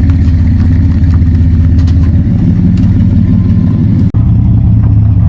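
Chevrolet pickup truck running on the road, a loud, steady low hum of engine and road noise. It cuts out for an instant about four seconds in.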